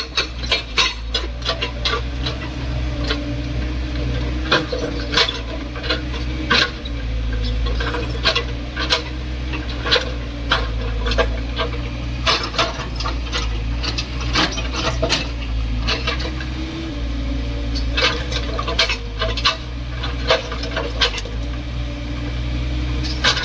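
JCB excavator engine running steadily, with irregular sharp knocks and scraping clatter from the machine breaking material. A quick even run of knocks ends just after the start.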